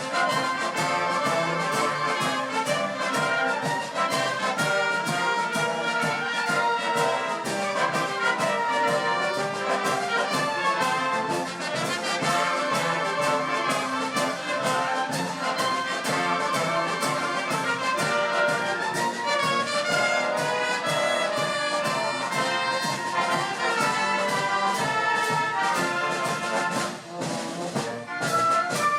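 Wind band music led by brass, trumpets and trombones, playing over a steady beat, with a short drop in loudness near the end.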